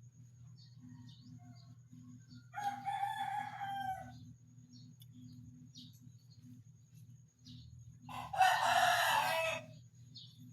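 Two loud, drawn-out animal calls, each about a second and a half long and about five seconds apart, the second louder. Under them run a steady low hum and faint, scattered high chirps.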